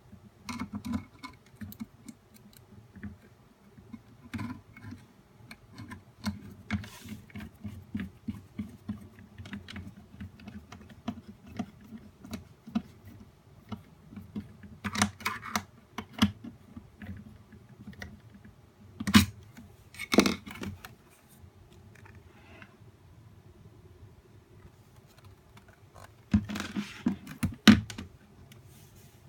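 Parts of a nail dust collector being handled during disassembly or reassembly: many light plastic clicks and taps, two louder knocks about two-thirds of the way in, and a quick run of knocks near the end.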